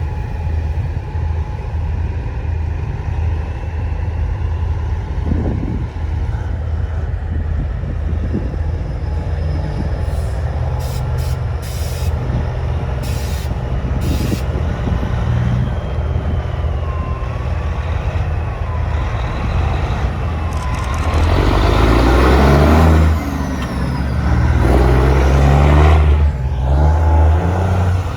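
Heavy truck diesel engine running with a steady low rumble. Near the end comes a louder rush of air hiss and engine noise in two surges, like a semi's air brakes releasing as it gets moving.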